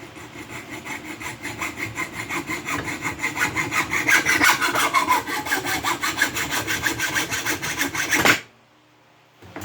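A saw cutting through copper pipe clamped in a vise, in quick, even back-and-forth strokes that get louder as the cut deepens. It stops suddenly a little over eight seconds in.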